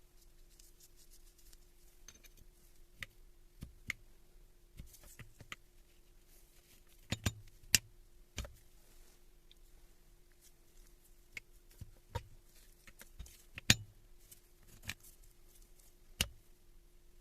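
Sharp clicks and knocks at irregular intervals, with a few louder ones near the middle, as parts and hand tools are handled on a bench during a Hilti TE1000 breaker rebuild, over a faint steady hum.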